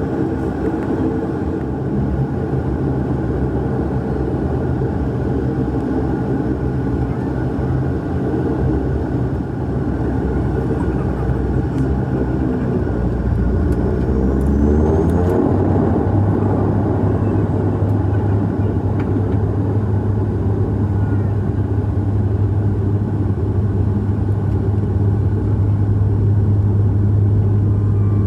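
Bombardier Q400's Pratt & Whitney PW150A turboprops and six-bladed propellers heard from inside the cabin: a steady propeller drone that, about halfway through, shifts up in pitch and grows louder as power is brought up for takeoff.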